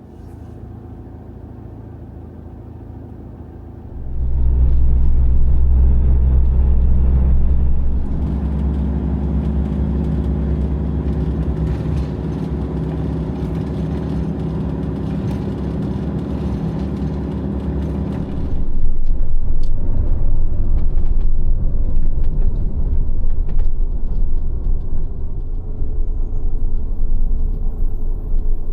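A camper van driving, heard from inside the cab: a steady engine hum gets much louder about four seconds in, then gives way to a louder, rougher road rumble after about nineteen seconds.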